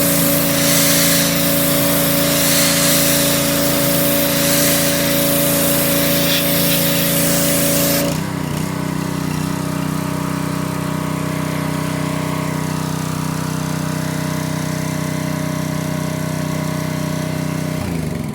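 A small gasoline engine driving a pressure washer runs steadily while the wand sprays with a loud hiss. About eight seconds in the spray stops and the engine keeps running; right at the end the engine winds down as it is shut off.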